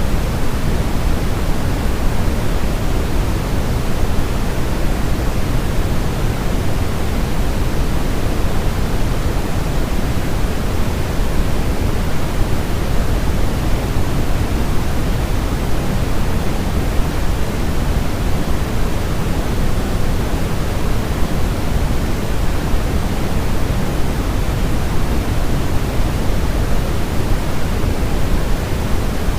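Steady generated noise, an even hiss that is heavier in the low end than the top and never changes: a baby sleep-aid white noise track meant to imitate the sound of the womb.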